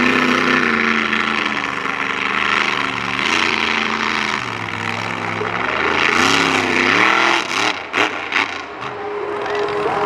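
Monster truck engine revving up and down repeatedly during a freestyle run, with a few sharp knocks about three quarters of the way through.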